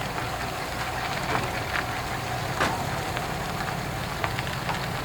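A car engine idling with a steady low rumble, with a few faint clicks over it.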